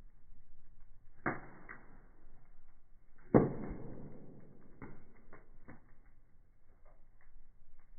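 Wood fire crackling in a fireplace: irregular pops and ticks over a low hiss, with a sharp crack about a second in and a louder pop a few seconds in.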